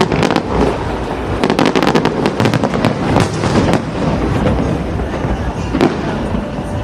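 Fireworks going off in quick succession, a dense string of bangs and crackles that is thickest in the middle and picks up again near the end, with crowd voices underneath.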